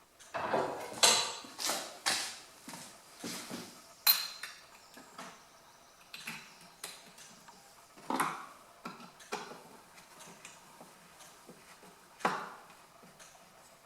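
Irregular metal clanks and knocks from handling the wood heater's door and bending the tabs that hold its glass in place, with a sharp metallic ping about four seconds in.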